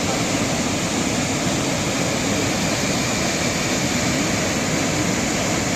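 Steady rushing roar of a waterfall, an even wash of water noise with no change in level.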